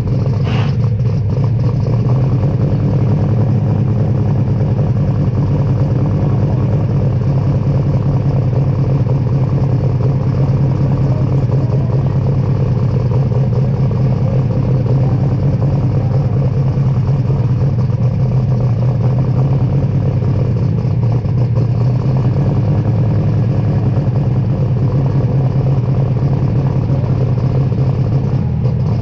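Superstock pulling tractor's turbocharged diesel engine running loudly at a steady speed, with no change in pitch. A brief higher tone sounds about half a second in.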